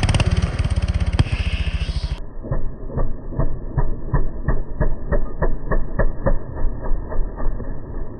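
Mini bike's small single-cylinder engine running hard with fast, even firing pulses. About two seconds in, the sound drops and slows to a deep chug of separate pulses, three or four a second, as the footage is played back in slow motion.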